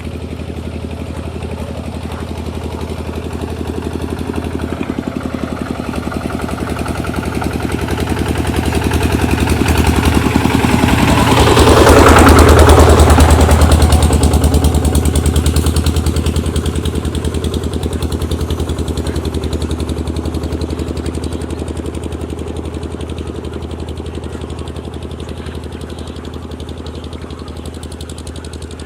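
An engine running steadily with a rapid, even pulse. It grows louder to a peak about twelve seconds in, then slowly eases off.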